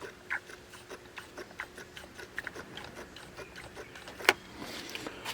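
Small irregular clicks, several a second, from the primer bulb of a Poulan P3816 two-stroke chainsaw being pumped while the bulb is just starting to draw fuel. One louder knock about four seconds in.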